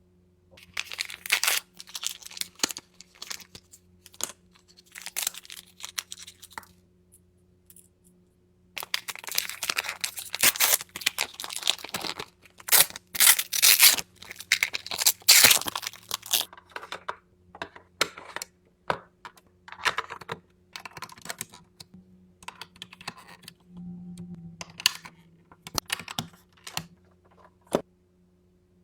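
Plastic packaging torn and crinkled by hand in irregular bursts, with scattered clicks and taps of small plastic pieces. The handling is busiest and loudest in the middle stretch.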